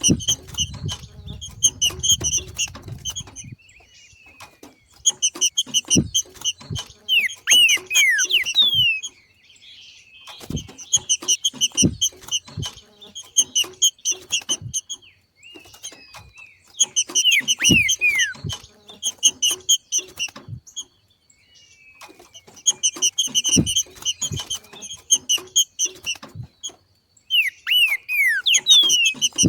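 Green-winged saltator (trinca-ferro) giving its 'macheado' chatter: phrases of rapid high notes mixed with falling slurred whistles, each a few seconds long, repeated with short pauses between them. A few brief low thumps fall between the phrases.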